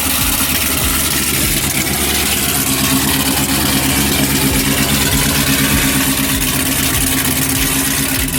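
2009 Cadillac CTS-V's supercharged 6.2-litre V8 idling steadily just after a cold start. Its exhaust runs from headers through an X-pipe to straight pipes, with no mufflers, so the idle is loud and deep.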